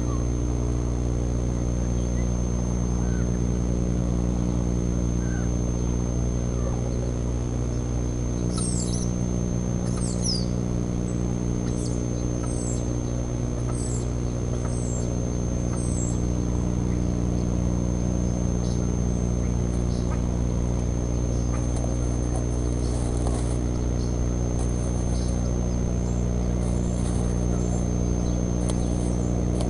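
Steady electrical hum with a thin high whine from the nest-cam microphone. From about a third of the way in, a bird gives a run of short, sharp, falling chirps, about one a second, for several seconds. Near the end there is faint scratchy rustling of dry nest grass.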